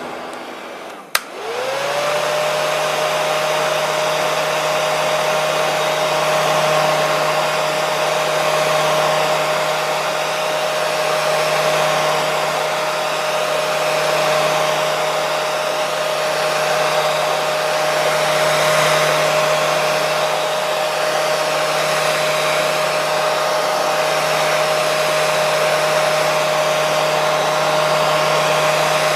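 Hair dryer with a click about a second in. Its motor whine then rises quickly to a steady pitch and runs on evenly over the rushing air.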